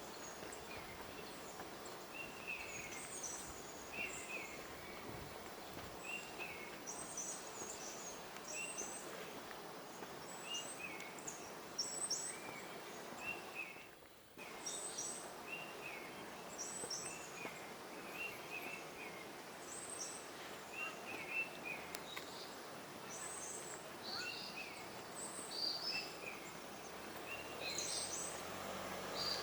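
Forest birds chirping, many short high chirps repeated on and off, over a steady background hiss of the forest. The background drops out briefly about halfway.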